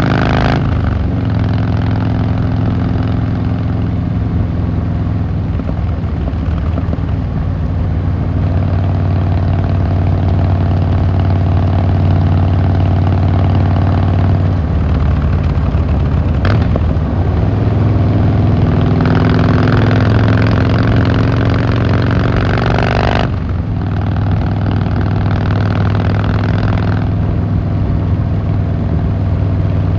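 Harley-Davidson Fat Boy Lo's V-twin running under way, the engine note rising and falling with throttle and gear changes. It climbs for several seconds, then drops off suddenly when the throttle is closed about three quarters of the way through.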